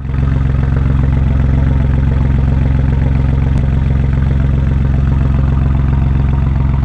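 Three-cylinder 1.4 TDI turbo diesel engine idling steadily, its exhaust giving a loud, even, low-pitched pulsing note.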